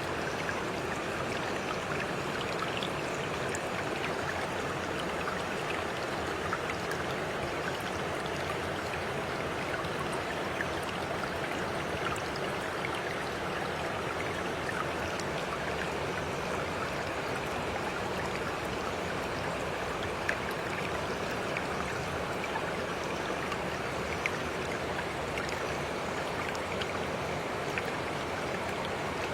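Running water flowing steadily and evenly, with faint scattered droplet ticks.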